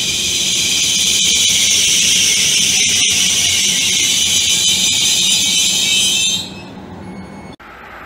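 A loud, steady high-pitched buzz of unclear source over the low rumble of a Trenitalia Rock double-decker electric train pulling out of the station. The buzz holds one pitch and cuts off suddenly about six seconds in.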